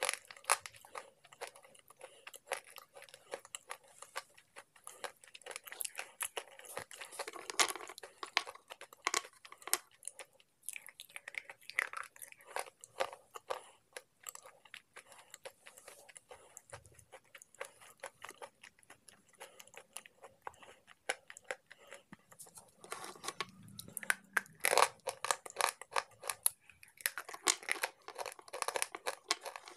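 Close-miked crunching and chewing of slate pencil pieces: a dense, uneven run of small sharp crunches as the brittle pieces break up between the teeth.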